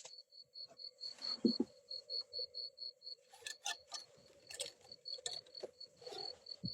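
Night insects calling, crickets by the sound: a high chirp repeating about four times a second, which breaks off briefly midway and resumes, over a steady lower drone. Scattered light clicks and rustles are heard throughout.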